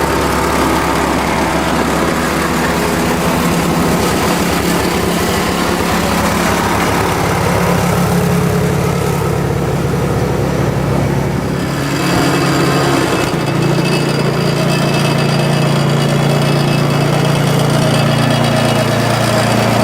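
Kubota L5740 tractor's diesel engine running steadily under work; its note changes about thirteen seconds in, then holds steady.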